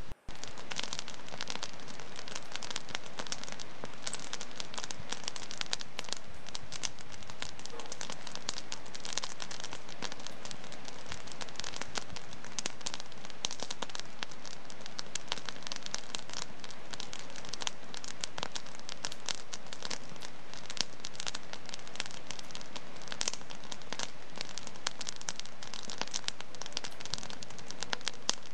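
Wood fire crackling in a fireplace: a dense, steady stream of small pops and snaps over a soft hiss, cutting out for an instant just after the start.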